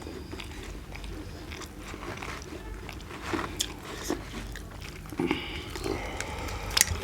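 Close-up sounds of a person biting and chewing roast chicken, with scattered short crunchy clicks and a few sharper ones near the end.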